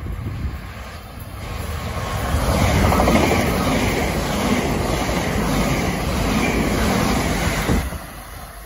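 A Southeastern electric multiple unit passes at speed close by: the rumble of wheels on rail builds from about a second in, stays loud through the middle, and falls away quite suddenly near the end as the last coach goes by.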